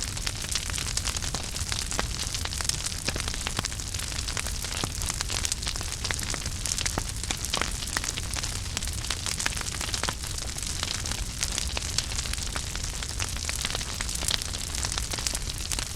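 Wood fire burning in a fireplace: a steady low rumble and hiss of flames with many small crackles and pops.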